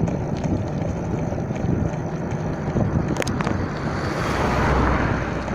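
Wind buffeting the microphone of a cyclist riding downhill: a steady low rumble that swells near the end, with one sharp click about three seconds in.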